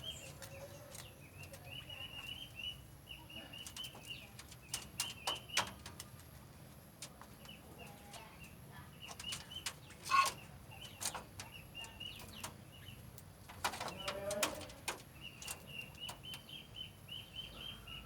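White-breasted waterhens moving and calling in their pen: wings flutter among scattered sharp knocks, and runs of short high chirps repeat several times a second. Two louder, harsher calls come about ten and fourteen seconds in.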